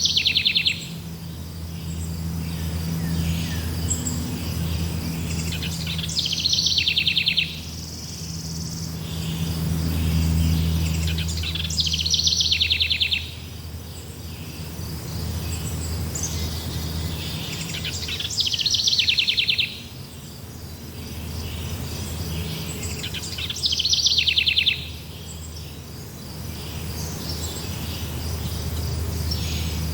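Forest birds singing with insects chirring: a loud, fast trill repeats about every six seconds over a steady high insect drone, with a low hum underneath.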